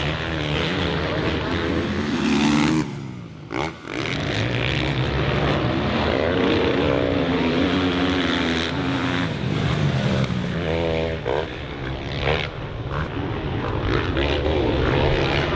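Motocross bike engine revving hard, its pitch rising and falling with the throttle and gear changes. About three seconds in it briefly drops off, then picks up again.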